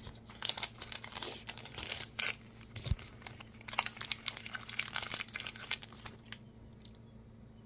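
Small plastic mystery bag being crinkled and torn open by hand: a dense run of crackles and rustles that dies down about six seconds in.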